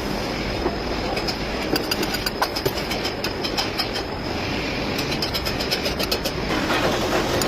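Volvo D13 six-cylinder diesel engine running, a steady drone with a fast, irregular clatter of sharp clicks over it and a thin high whine.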